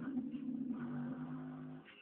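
Music playing through a car's trunk-mounted subwoofer system, with held low bass notes.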